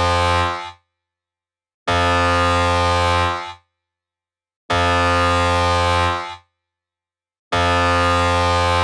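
Deep air-horn sound effect played through a speaker, sounding in long steady blasts of about a second and a half, about every three seconds, with dead silence between.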